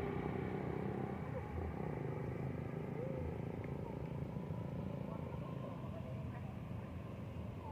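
A small engine running steadily, with a few faint bird chirps over it.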